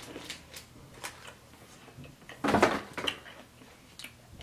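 A person chewing Sweet Heat Skittles, with small clicking sounds from the candy and its packet and one louder brief noise about two and a half seconds in.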